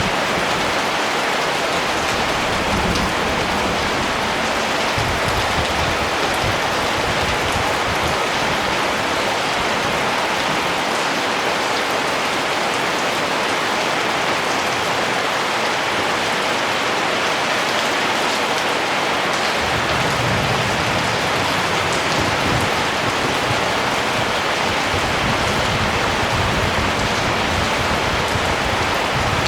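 Steady rain falling on surfaces, an even hiss with fine drop ticks and a soft low rumble that comes and goes.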